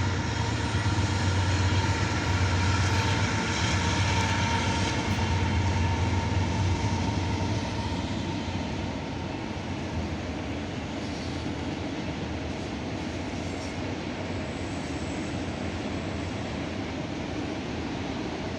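CSX freight train passing. A diesel locomotive's engine hum with a steady low tone is heard for the first seven or eight seconds, then fades into the steady rolling noise of autorack cars on the rails.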